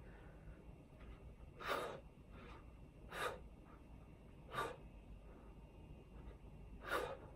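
A man's hard breathing from the exertion of push-ups: four sharp, noisy exhales spaced a second and a half to two seconds apart, with quieter breathing in between.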